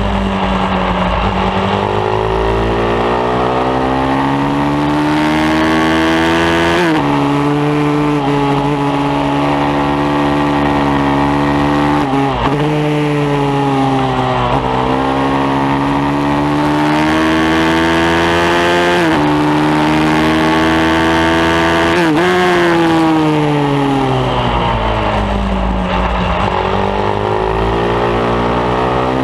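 Pit bike's single-cylinder engine at racing pace: it drops off for a corner near the start, then revs up hard through the gears with quick upshifts that make the pitch fall sharply. It backs off again a few seconds before the end and starts climbing once more, with a steady rush of wind underneath.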